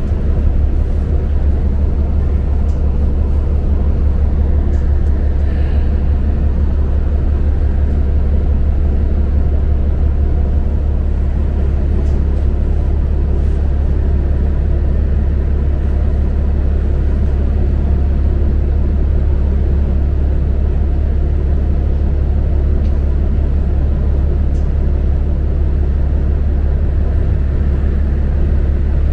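New Flyer Xcelsior XD40 diesel bus heard from inside the cabin: the engine runs steadily with a constant low rumble.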